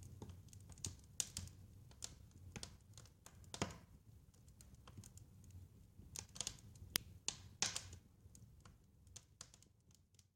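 Wood fire crackling: irregular sharp pops and snaps over a low rumble of flame, fading away near the end.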